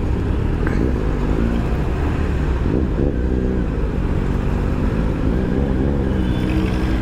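Motorcycle engines in slow, stop-go city traffic: the Honda X-ADV 750's own engine and the bikes around it run at low speed as a steady low drone, with pitch rising and falling a few times as they ease forward.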